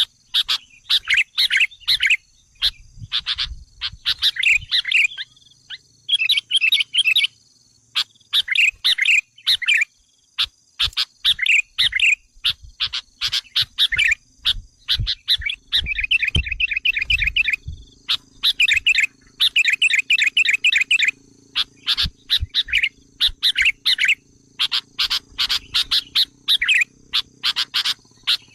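Sooty-headed bulbul (kutilang) calls played as a lure to draw wild bulbuls: quick chattering phrases in bursts of about a second, repeated again and again with short pauses. A faint steady high-pitched tone runs underneath.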